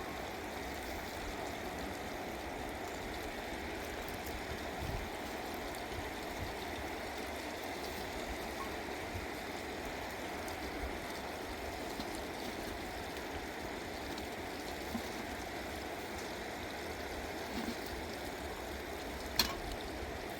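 Running water with a steady rushing sound, like a stream, and a single sharp click near the end.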